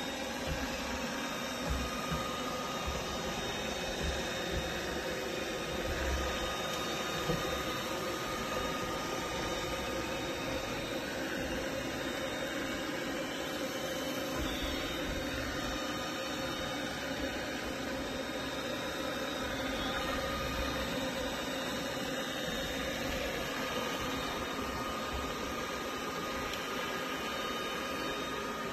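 Robot vacuum running: a steady motor whir with a faint constant whine, and a few light knocks in the first several seconds.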